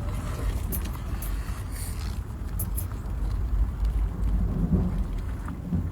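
Steady low rumble of a vehicle's engine and road noise heard from inside the car, with a few light clicks and knocks.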